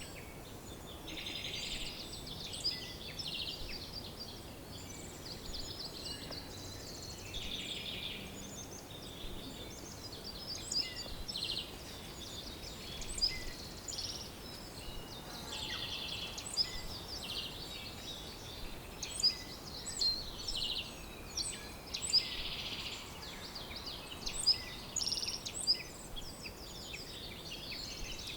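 A chorus of several songbirds singing, with many overlapping chirps and a few rapid buzzy trills, over a faint steady background hiss.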